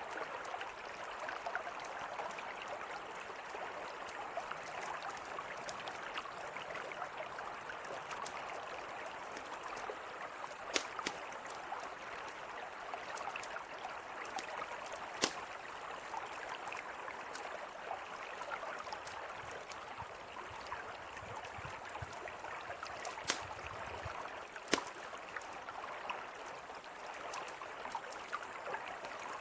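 A mountain river flowing steadily, with a few sharp pops from a crackling campfire scattered through it.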